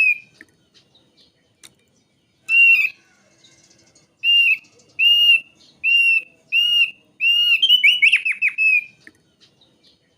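Thick-billed white-eye singing: clear, arched whistled notes repeated about once a second, breaking near the end into a quick run of steeply falling notes.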